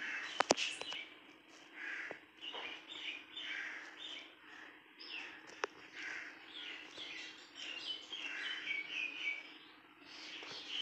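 Small birds chirping over and over in short calls, with a steady low hum underneath and a couple of sharp clicks, one near the start and one about halfway.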